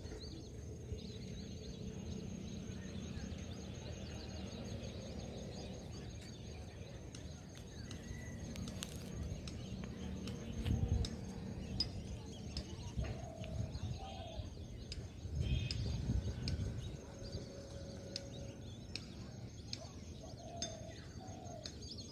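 Open-air wetland ambience: scattered faint bird calls over a low rumble, with a steady high-pitched buzz underneath. The rumble swells louder twice, about 11 and 16 seconds in.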